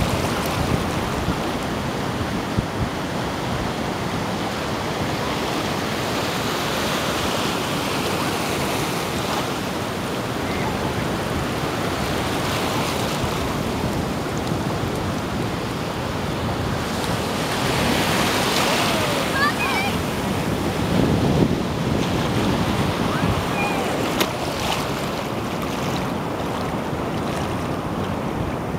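Sea waves washing and breaking in a steady rush that swells louder now and then, with wind on the microphone.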